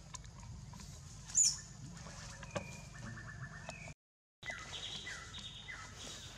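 Wild birds calling in forest: a loud high chirp about one and a half seconds in and a short fast trill near three seconds. After a half-second break in the sound, one bird repeats a short falling call four times.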